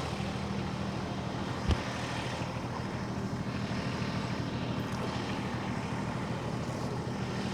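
Engine idling steadily, with one short low thump about two seconds in.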